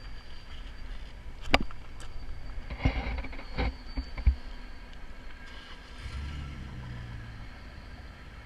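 LS V8 engine of a Jeep Wrangler TJ running low and slow while rock crawling, with several sharp knocks in the first half. The engine picks up briefly about six seconds in.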